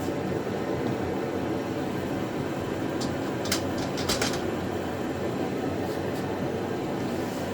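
Steady low rumbling background noise, with a few short sharp clicks a little past the middle, typical of metal parts being handled during assembly.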